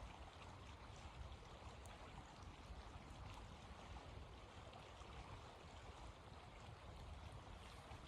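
Faint, steady wind noise with a low rumble, with a few faint ticks scattered through it.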